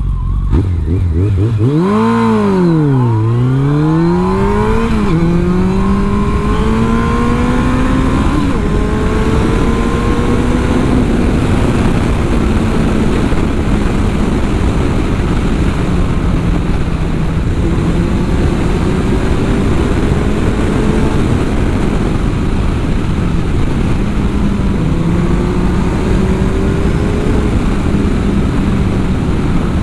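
A 2003 Yamaha FJR1300's inline-four engine pulling hard from a stop. The revs climb and drop back through several upshifts in the first ten seconds or so, then the engine settles into a steady drone under heavy wind rush on a helmet-mounted microphone.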